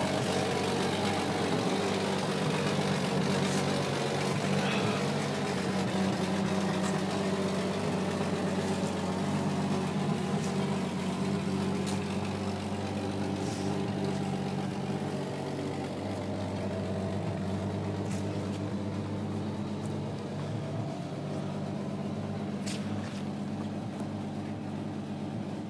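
1966 Ford Mustang's 200 cubic-inch inline six idling steadily, with a few faint clicks over it; the owner describes the car as having a pretty bad exhaust leak.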